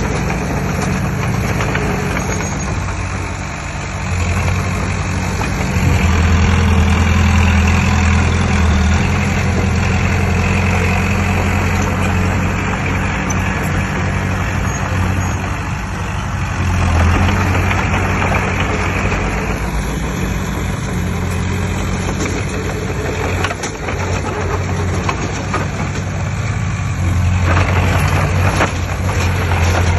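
Heavy earthmoving machine's diesel engine running with a steady deep drone, growing louder for a few seconds at a time, several times over.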